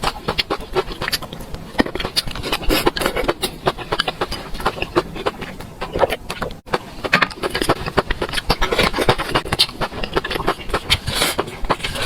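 Close-miked eating sounds: rapid, irregular chewing and mouth clicks, with a brief cut-out about six and a half seconds in.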